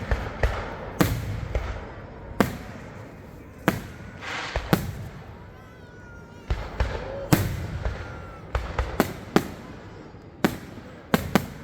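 Aerial fireworks shells bursting: about a dozen sharp bangs at irregular intervals, several close together near the end, each trailed by an echo.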